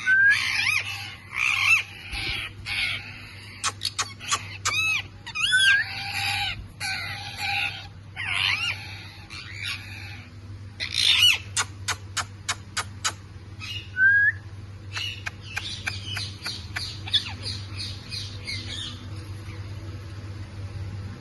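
Green ringneck parakeets squawking and chirping: busy chatter, short rising and falling whistled calls, and a quick run of sharp clicking notes about halfway through, over a steady low hum.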